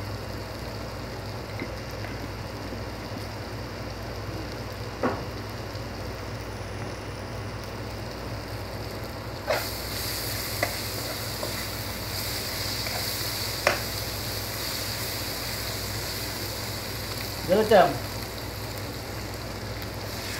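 Onion and tomato masala sizzling in a frying pan while a metal spoon stirs it, with a few sharp knocks of the spoon against the pan; the sizzle gets louder about halfway through. Near the end a brief wavering, pitched sound stands out above the frying.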